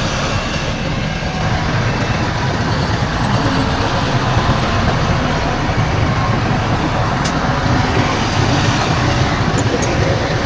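Heavy diesel engine of earthmoving machinery running steadily under load, a loud, low, even engine sound.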